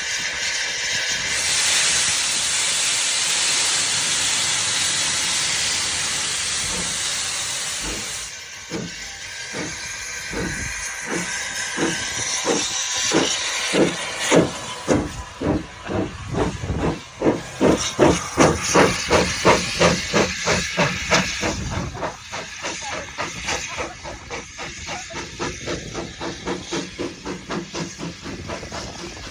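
Andrew Barclay 0-4-0 saddle tank steam locomotive: a loud steady hiss of steam for about the first eight seconds, then it sets off with exhaust chuffs that come quicker and quicker, loudest in the middle and quieter toward the end as it draws away.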